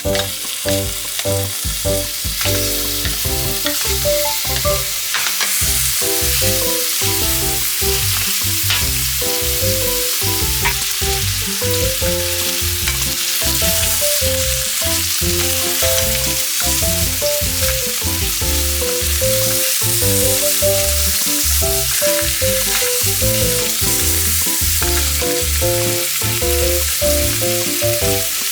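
Pork belly rolls sizzling steadily as they fry in a pan, with background music.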